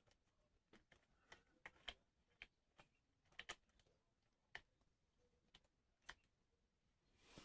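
Faint, scattered light clicks and taps of hard plastic action-figure parts being handled and posed, at irregular intervals.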